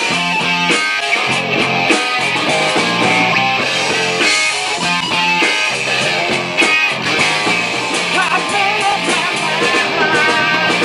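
Live rock band playing, guitar to the fore over a pulsing, repeating bass line.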